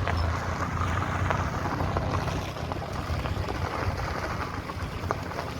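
A vehicle moving along a road: a steady low rumble with a noisy haze and scattered small knocks and rattles.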